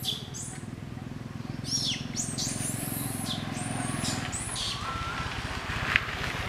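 Birds chirping in a series of short, high calls, over a steady low hum, with one sharp click just before the end.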